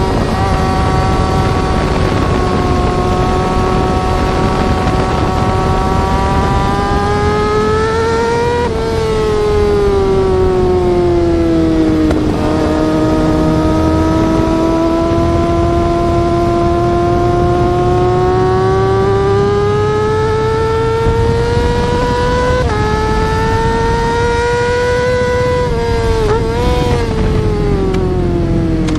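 Yamaha R6 inline-four sport-bike engine at high revs, a high-pitched wail that climbs and sags with the throttle. It falls away sharply about nine seconds in and jumps up abruptly about 23 seconds in, over a steady low rumble of road and wind.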